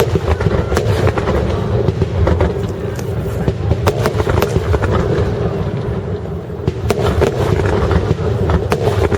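Fireworks star mine in a rapid barrage: a continuous low rumble of bursts with many sharp cracks and pops scattered over it.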